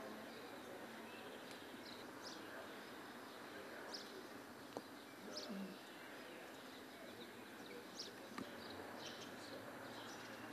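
Faint birds chirping now and then, short high calls over a steady background hiss.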